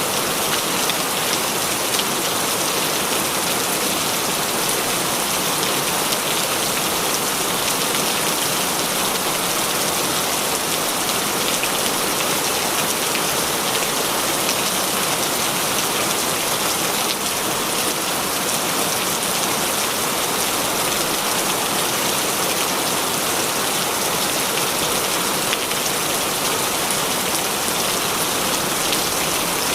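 Heavy rain falling steadily, a constant hiss with dense patter of drops on surfaces.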